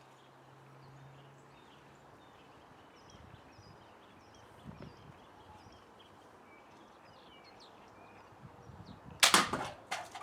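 Homemade slingshot pistol firing about nine seconds in: one loud sharp crack, then a second sharp crack just under a second later. Before it, a quiet background with faint bird chirps.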